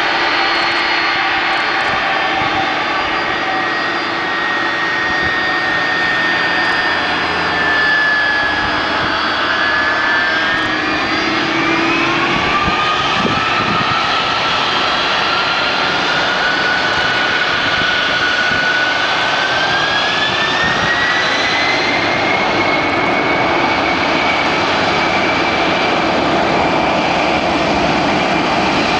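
Boeing 767-300ER twin jet engines running loud through a takeoff. A whine dips slightly, then climbs in pitch from about halfway through and levels off higher, as the engines spool up.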